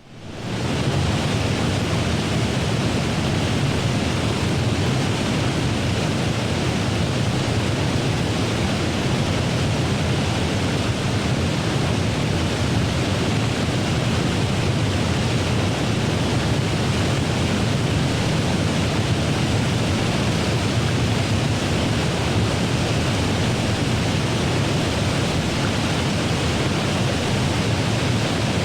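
A steady rushing noise that rises out of silence within the first second and then holds even, with no swells, beats or tones.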